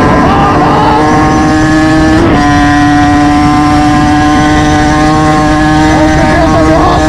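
Motorcycle engine running loud at a steady high pitch under way, with a short jump in pitch about two seconds in. Heavy wind rumble on the microphone underneath.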